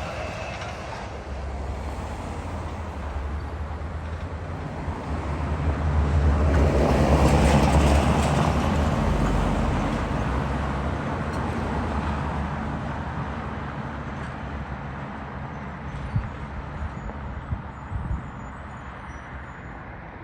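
A road vehicle drives past: its low engine rumble and road noise swell to their loudest about seven seconds in, then slowly fade away.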